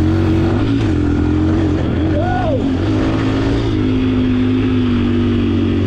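125 cc four-stroke dirt bike engine running, its note shifting up and down a little before settling to a steady lower note about two-thirds of the way through.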